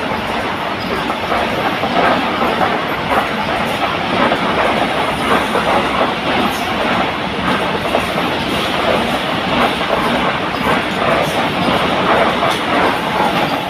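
Vande Bharat Express electric train set going past, a continuous rush of wheel and rail noise with wheels clattering over rail joints.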